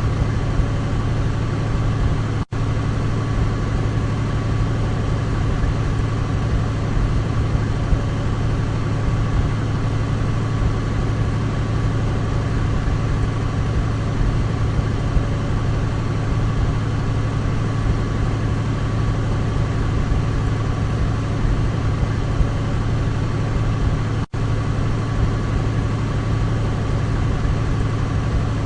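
Douglas DC-3's radial piston engines running in a steady drone with a strong low hum. The sound cuts out for an instant twice.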